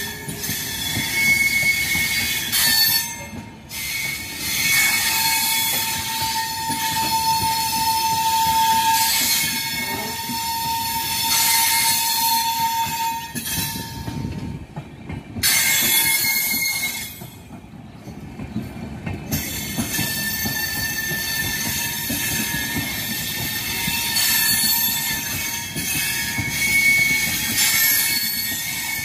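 Indian Railways passenger coaches rolling slowly past with a continuous rumble from the bogies. The wheels squeal on the rail in thin, steady high tones that come and go. The loudness dips briefly a couple of times.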